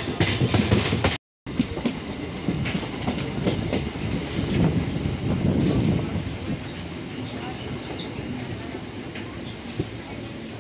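Passenger train coach rolling along the track, heard from aboard: a steady rumble of the wheels with a constant rattle of knocks and clatter over the rails. The sound cuts out for a moment about a second in, and it is louder for the first six seconds or so, then settles lower.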